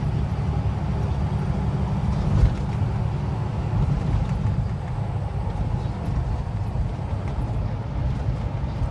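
Steady low rumble of a semi-truck cruising on the highway, engine and road noise heard inside the cab, with a brief thump about two and a half seconds in.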